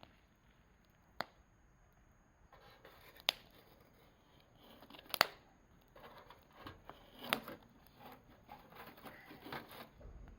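Campfire crackling, with four sharp pops about two seconds apart and a denser run of small crackles from about a quarter of the way in.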